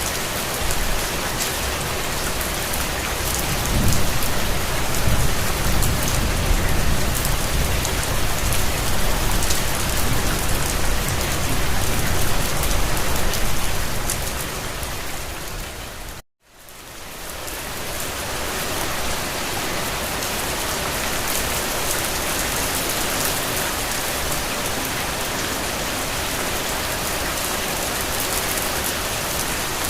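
Steady rain falling on a hard surface, an even hiss of many drops. A low rumble runs under it from a few seconds in until past the middle. Then the rain fades out to a moment of silence and fades back in.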